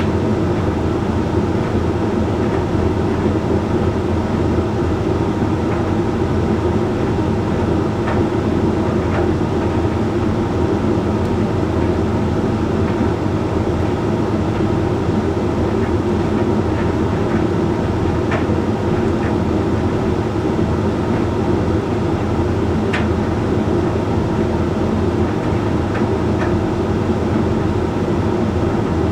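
Hoover Link X Care condenser tumble dryer running mid-cycle: a steady hum and rumble from the turning drum, motor and fan, with a few faint ticks.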